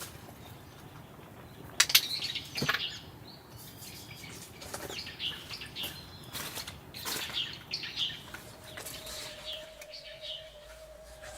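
Burning firewood crackling, with scattered sharp pops and short high squeaks. A thin steady whistle comes in over the last few seconds.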